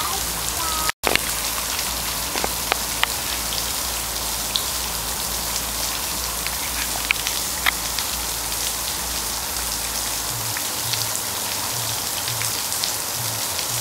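Steady rain falling, with scattered sharp drips and taps of drops landing. The sound cuts out for an instant about a second in.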